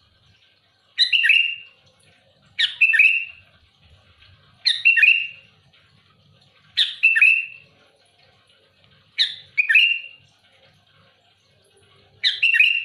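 Sooty-headed bulbul calling loudly: six short, harsh bursts of quick notes, each under a second, repeated about every two seconds.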